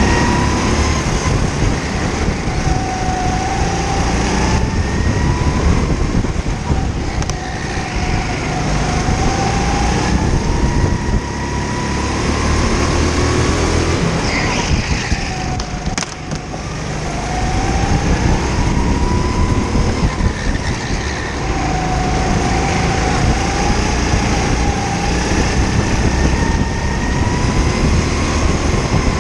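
A kart's small petrol engine heard onboard, its pitch repeatedly rising as it speeds up and falling as it slows, over a heavy low rumble. There is one sharp click about halfway through.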